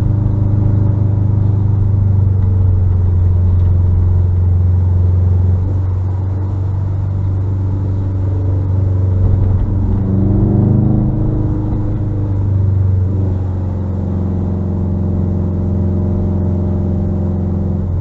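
A 2021 Subaru WRX STI's turbocharged flat-four runs through a muffler-delete exhaust while driving, giving a steady low drone. About ten seconds in, the pitch briefly rises and falls with a change of throttle.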